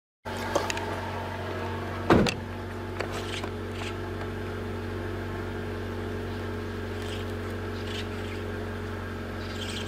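Car engine idling steadily, heard from inside the car, with a few handling clicks and one louder knock about two seconds in.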